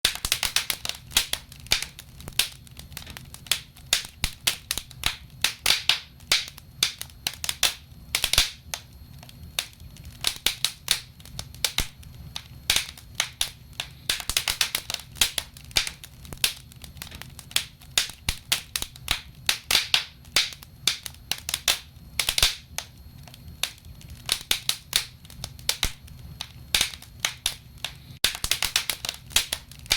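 Wood fire crackling, with frequent irregular snaps and pops over a low, steady background noise.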